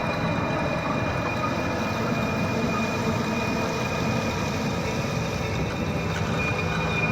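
Heavy downpour and strong wind, a dense, steady rush of rain and gusts.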